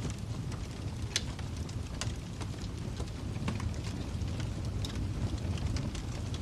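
Wood fire crackling: a steady low rumble of burning with scattered sharp pops, one louder pop about a second in.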